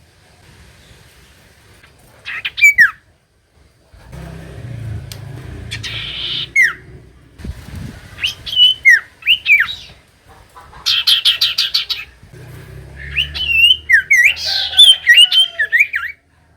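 Common iora singing: separate downward-slurred whistled notes, a rapid trill about eleven seconds in, then a busier run of chattering whistles near the end. A low rumble sits beneath parts of it.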